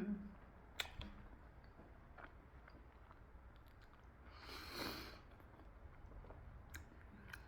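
A person chewing a mouthful of chilli momo, a Nepali dumpling, with a few small mouth clicks. A short breathy rush of noise comes about five seconds in.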